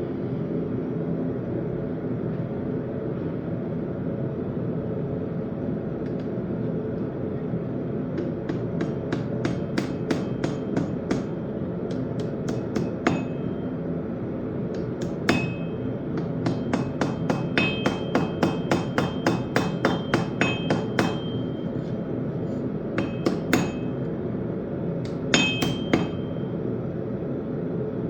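Hand hammer forging a railroad-spike knife on an anvil: after a pause of several seconds come runs of rapid strikes, about four a second, with short pauses between them and a high ring after many blows. A steady low running noise lies underneath.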